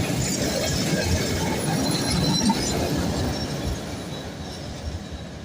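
Freight train wagons rolling along the rails, a dense steady rumble that grows quieter from a little under four seconds in.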